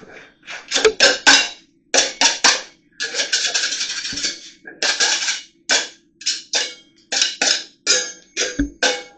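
A 1-inch metal putty knife scraping and clinking against plaster mix and its container in a quick run of strokes, mostly short with a few longer scrapes of about a second, over a faint steady hum.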